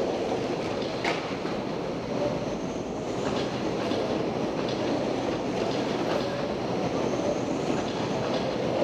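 A pack of electric RC racing trucks with 17.5-turn brushless motors running flat out together: a steady, dense whine of motors and tyres, with one short sharp click about a second in.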